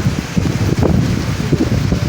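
Sea wind buffeting the microphone: a loud, uneven low rumble.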